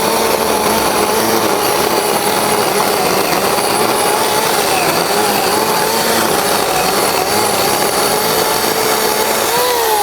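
An 18-volt Ridgid cordless chainsaw with a 12-inch bar, cutting through a cedar branch. Its electric motor whines steadily over the noise of the cut, wavering as it loads, and the whine rises near the end.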